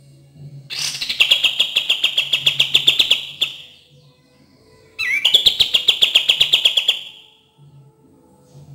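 Kapas tembak bulbul song: two long, loud, rapid trills of about eight notes a second, the second starting about five seconds in, played as a lure to get caged birds of the same kind singing.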